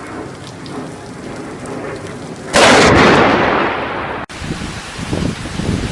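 Rain falling steadily, then about two and a half seconds in a loud thunderclap that fades and cuts off suddenly, followed by low, uneven rumbling of thunder.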